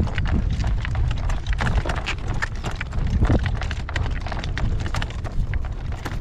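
Hoofbeats of a Morgan gelding clip-clopping steadily as he pulls a carriage, a quick series of sharp knocks. Strong wind rumbles heavily on the microphone underneath.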